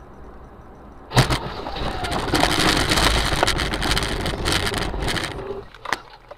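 A road vehicle crash recorded from a dashcam: a sudden loud impact about a second in, followed by several seconds of crunching and scraping noise full of small cracks, which fades near the end.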